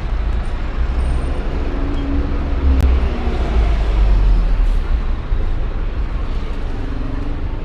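City street traffic: a motor vehicle's engine rumbles close by, swelling to its loudest a few seconds in and then easing. A single sharp click sounds about three seconds in.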